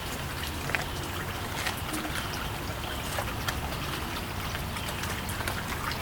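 Faint scattered small clicks and rustles of a small electronic component and tools being handled, over a steady low hum and hiss.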